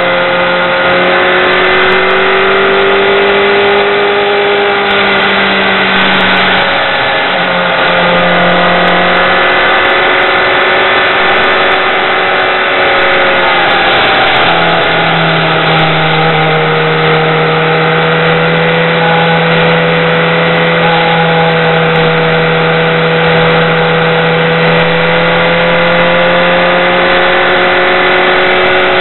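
BMW K1200R motorcycle's inline-four engine running at road speed, heard from a helmet camera, with steady wind rush. The engine note rises and falls gently through the bends. It eases off for a few seconds near the middle, then comes back on and holds steady.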